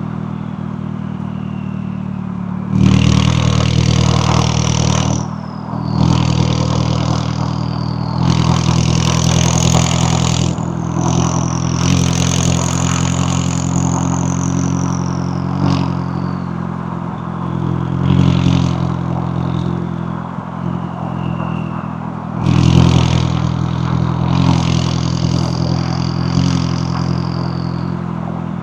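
McLaren 570S twin-turbo V8 driving under load, going on and off the throttle. It runs steady between several louder pulls, the first about three seconds in and another near 22 seconds. A high whistle rises and falls through the pulls.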